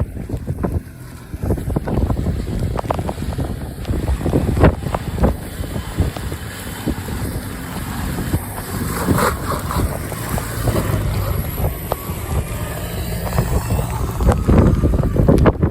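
Wind buffeting the microphone with irregular knocks, over the low, steady hum of an engine running.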